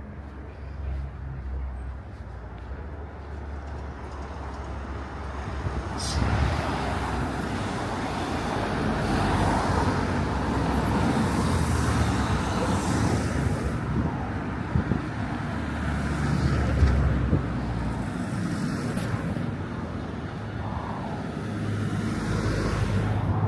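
Road traffic on a town street: motor vehicles passing, a steady rumble that swells about six seconds in and again later before easing off.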